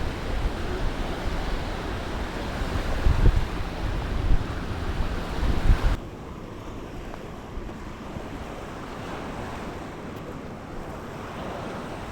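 Sea waves washing on the shore with wind buffeting the microphone in gusts; about six seconds in the sound cuts suddenly to a quieter, steadier wash of surf.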